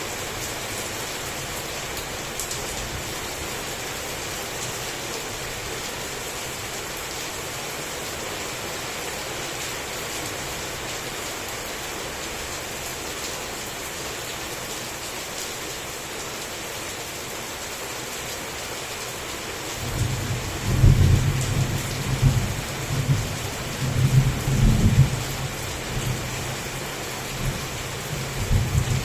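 Heavy rain falling steadily; about two-thirds of the way through, thunder begins rumbling low and rolling on with several loud swells.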